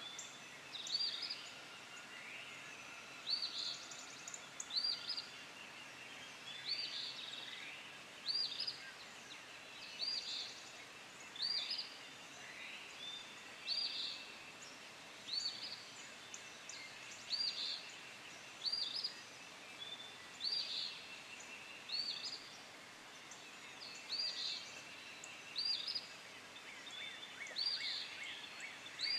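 A songbird repeating a short, high call about every second and a half, with other birds calling faintly behind it.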